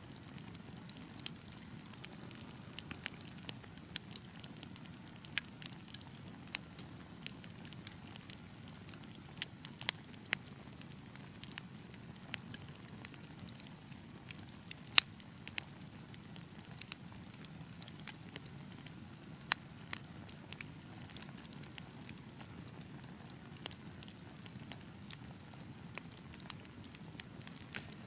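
Fire in a fireplace crackling, with irregular sharp pops over a steady low rumble of the flames. One pop about halfway through is louder than the rest, and another stands out a few seconds later.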